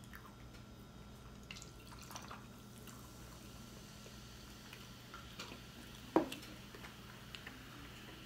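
Soft wet chewing and mouth smacks of people eating shrimp po' boy sandwiches: scattered faint clicks, with one sharper click about six seconds in, over a faint steady hum.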